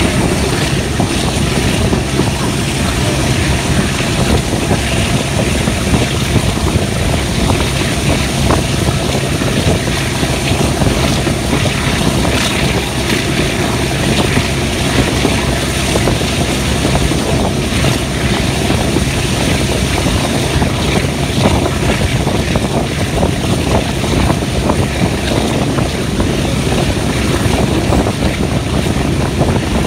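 Diesel-hauled passenger train running steadily at speed: a constant engine drone mixed with wheel and rail noise, heard from an open carriage window with wind buffeting the microphone.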